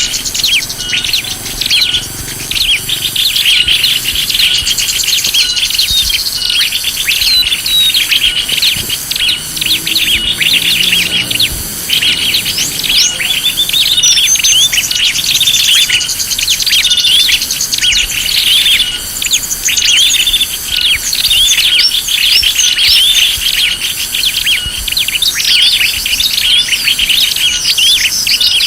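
Many small birds chirping and trilling in a dense, continuous chatter, a lure-call recording for attracting small birds. Above it runs a faint high pulsing trill that repeats a little more than once a second.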